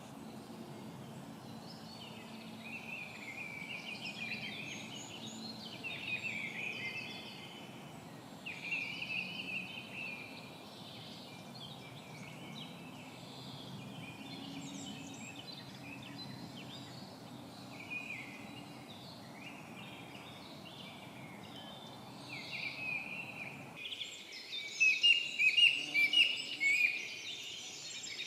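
Woodland birds singing, many short overlapping phrases, over a low steady background rumble. About 24 seconds in the rumble cuts off suddenly and the birdsong becomes louder and busier.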